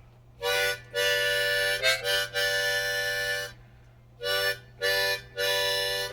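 Harmonica played in chords, in about seven short phrases with brief gaps between them. A faint steady hum runs beneath it.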